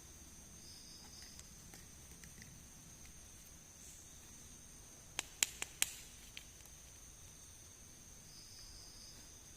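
A quick run of about five sharp clicks about five seconds in, from small plastic miniature toy pieces being handled, over a faint steady hiss with a thin high whine.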